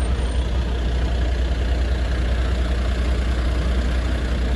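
A vehicle engine running steadily with a low rumble and traffic noise.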